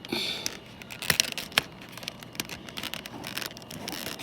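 Handling noises: a short rustle at the start, then scattered clicks and taps of small plastic parts being handled.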